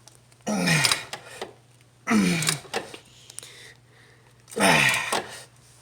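A man grunting with effort three times, about two seconds apart, each grunt falling in pitch, as he strains to lever a belt tensioner down with a crowbar.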